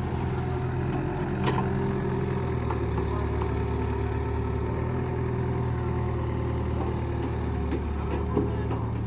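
Tractor's diesel engine running steadily, with a couple of short knocks about a second and a half in and near the end.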